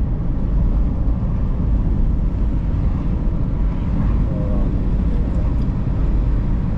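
Steady low rumble of a vehicle driving along a highway, engine and tyre noise running continuously.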